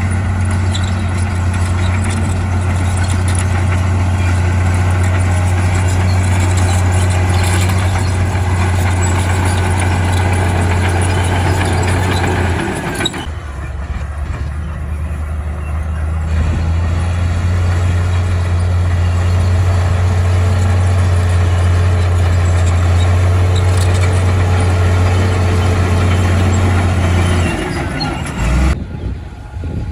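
Heavy diesel earthmoving machinery running loudly with a steady low engine note, the sound briefly breaking and changing about halfway through and dropping away near the end.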